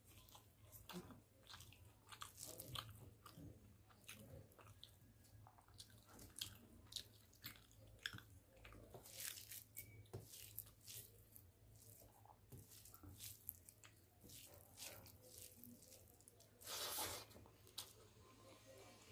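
Faint close-up chewing of a mouthful of rice and fish curry, with many short clicks and mouth noises, and fingers mixing rice on a steel plate; one longer, louder noisy burst near the end.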